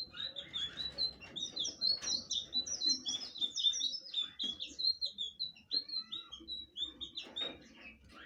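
Blue flycatcher (sikatan biru) singing a fast, continuous warbling song of short high whistled notes, which stops near the end.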